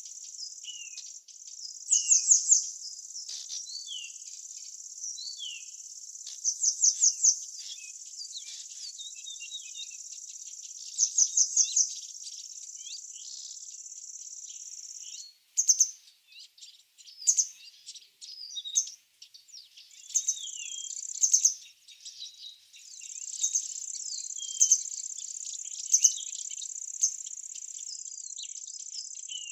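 Outdoor birdsong over a steady high-pitched insect trill. A bird repeats a short, rapid phrase about every four to five seconds, with scattered chirps from other birds between. The trill drops out twice around the middle and then resumes.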